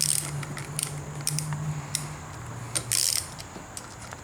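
Ratcheting driver with a Torx bit clicking in short, irregular bursts while loosening the screws on a motorcycle's clutch-side handlebar controls, over a low steady hum.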